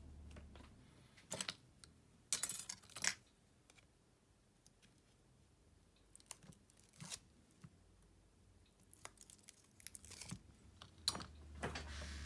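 Small clicks and scrapes of phone parts and repair tools being handled during a smartphone teardown, with a few short tearing sounds like tape or adhesive being peeled, the loudest about two seconds in and again near the end.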